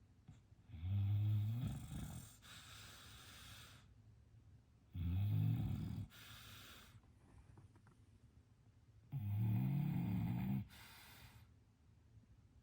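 English bulldog snoring in its sleep: three low-pitched snores about four seconds apart, each followed by a softer breath.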